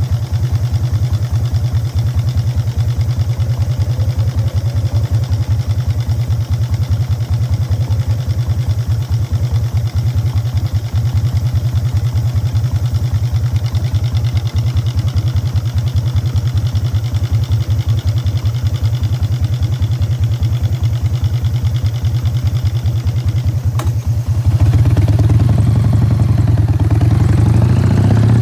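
Exhaust of a 1999 Harley-Davidson Fat Boy's Evolution V-twin through Python mufflers, running steadily on the road with a pulsing low rumble. About three-quarters of the way through it gets louder and rises in pitch as the bike accelerates.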